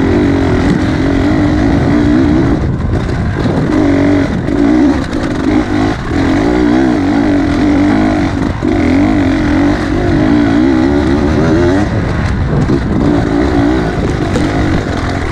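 Beta 300 two-stroke enduro motorcycle engine revving on and off the throttle on a rough dirt trail, its pitch wavering up and down and dropping away briefly every few seconds.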